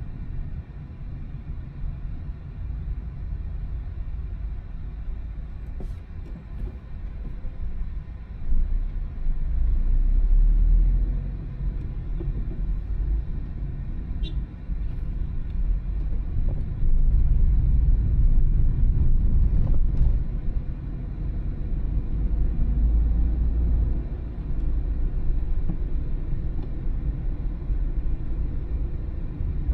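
Car driving, heard from inside the cabin: a steady low rumble of engine and tyre noise that swells louder a few times as the car speeds up.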